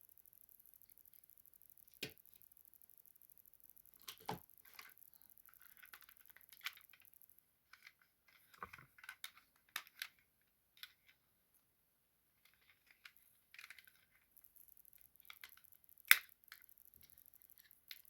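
Scattered clicks, taps and short crinkling rustles from small toy cars and their cardboard and plastic packaging being handled, with quiet gaps between them. The loudest is a sharp click near the end.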